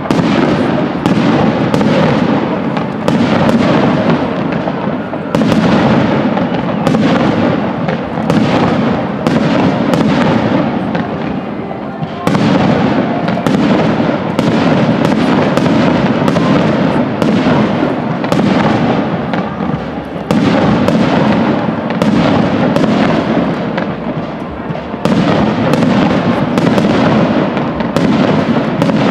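Aerial firework shells bursting in a continuous barrage, about two bangs a second, over a steady din.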